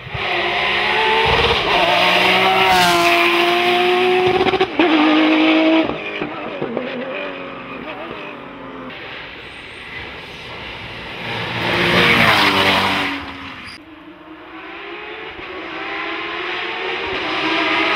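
Porsche race cars' flat-six engines revving hard on a hill climb: engine pitch climbs and drops through gear changes, one car goes by loudly about twelve seconds in with its note falling away, and another builds up toward the end.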